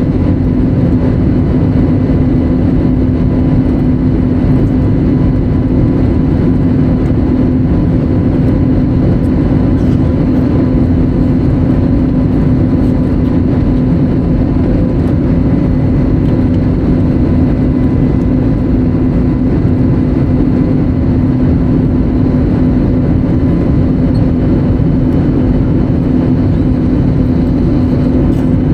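Steady cabin noise inside an Airbus A320neo airliner: an even, loud engine and airflow drone with a constant hum, unchanging throughout.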